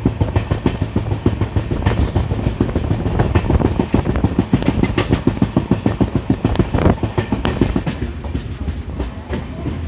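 Passenger train running at speed, its wheels clattering rapidly and unevenly over rail joints and points above a low rumble.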